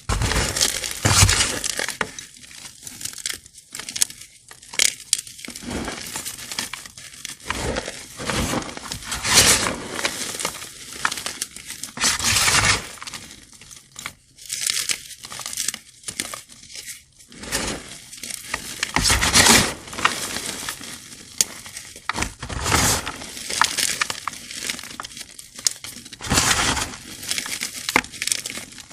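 Crunchy blocks of gym chalk, coated in sand and glitter, being crushed and crumbled, giving a crisp, gritty crunch every second or two.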